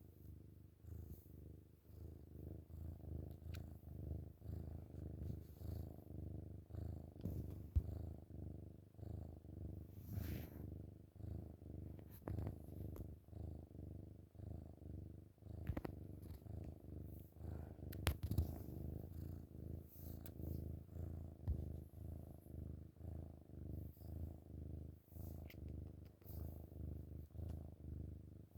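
Kitten purring loudly and continuously, the purr swelling and easing with each breath about once a second, with a few soft clicks of movement against bedding.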